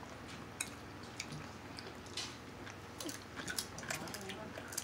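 Close-up eating sounds: quiet chewing with scattered short wet clicks and smacks from mouths and hands working through seafood.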